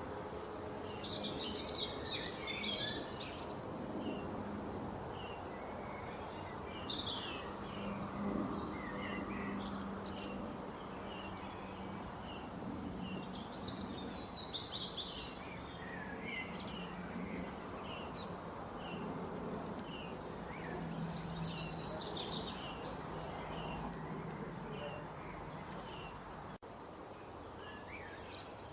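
Small birds chirping in clusters every few seconds, over a steady low background hum.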